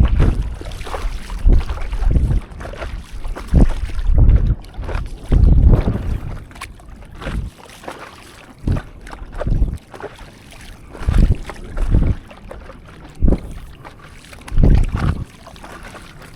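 Stand-up paddleboard paddle strokes in sea water, a splash about every second to second and a half, with wind on the microphone.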